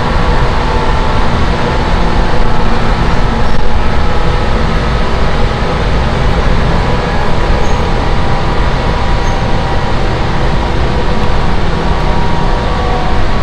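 Seibu 10000 series Red Arrow limited express train running at speed, heard inside the passenger car: a loud, steady rumble of wheels and running gear with a faint steady whine.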